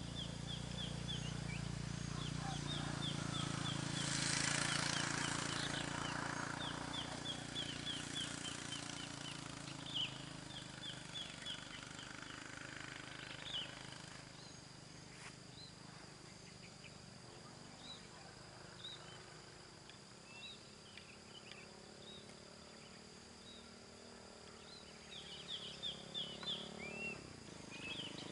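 A bird calling in quick trains of short, falling chirps, repeated several times, over a faint low hum. A broad rushing noise swells for a couple of seconds about four seconds in and is the loudest moment.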